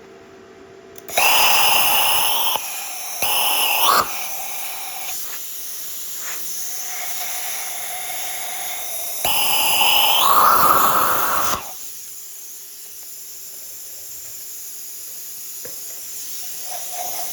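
Small plasma cutting torch firing in three bursts, the third the longest, each a loud hiss, with a quieter steady hiss between them. It is washing the old pivot bushing out of a Bobcat T190's Bobtach.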